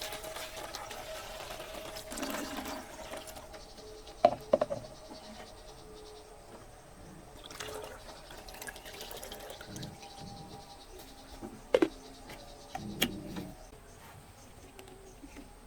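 Liquid pouring into a container, with a few sharp knocks in between.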